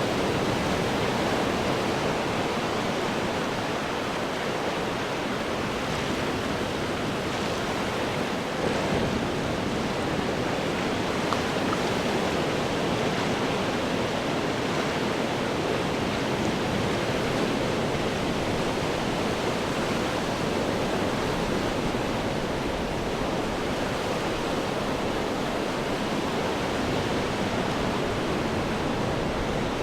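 Ocean waves crashing on rocks: a steady, dense rush of surf, swelling slightly about eight and a half seconds in.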